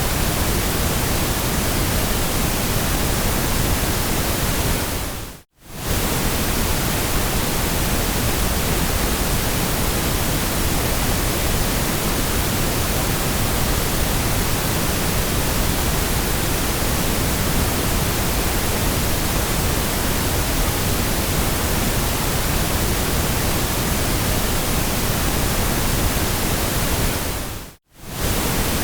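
Steady white noise, an even hiss across all pitches, that fades briefly to silence and straight back in twice: about five seconds in and again near the end.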